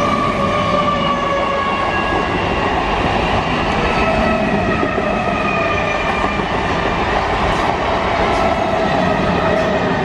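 Electric multiple unit (EMU) suburban train passing close by at speed: a loud, steady rush of wheels on rail, with several whining tones held throughout.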